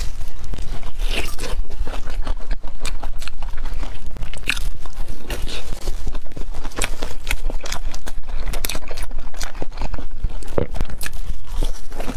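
Close-miked eating: biting into and chewing a deep-fried, sugar-dusted red bean puff (xuemian dousha), with many short crackles and wet mouth clicks.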